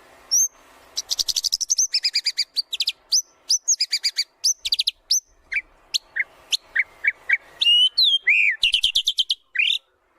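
White-rumped shama singing a fast, varied song: rapid runs of short repeated notes and whistled phrases with quick rises and falls, broken by brief gaps, stopping just before the end.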